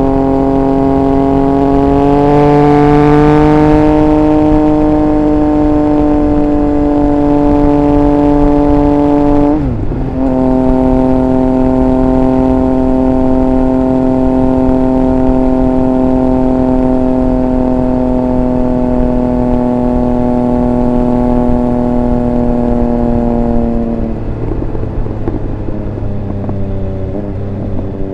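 Triumph Speed Triple 1200 RR's three-cylinder engine pulling at steady high revs while riding. There is a brief break in the note about ten seconds in, as in a quick gear change. Near the end the throttle closes, the note drops and turns ragged on the overrun, then picks back up.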